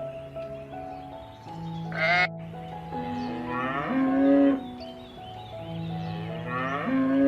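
Bleating livestock calling three times over steady background music: a short bleat about two seconds in, then two longer, wavering bleats in the middle and near the end.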